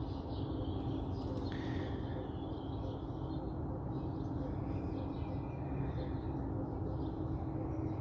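A steady low hum, with faint bird chirps now and then.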